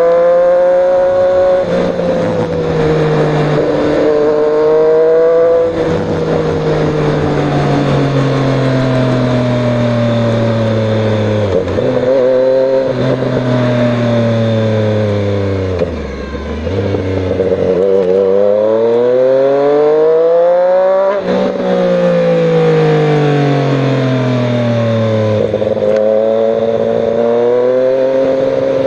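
Triumph Street Triple 765 RS inline three-cylinder engine through an Austin Racing de-cat slip-on exhaust, loud and continuous. The revs fall away slowly with several sudden jumps up in pitch, then climb in one long rising pull a little past halfway, drop sharply and fall again.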